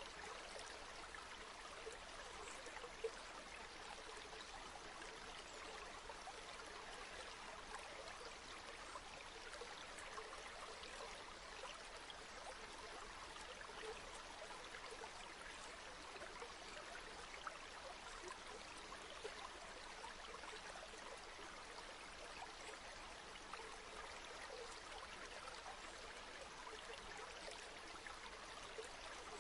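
River water flowing steadily: an even rush and burble, with a few brief louder splashes.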